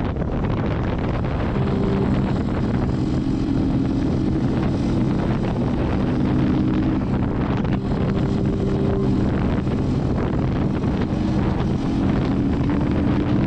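Wind rushing over a motorcycle rider's microphone at road speed, with soft ambient music chords coming in underneath about a second and a half in.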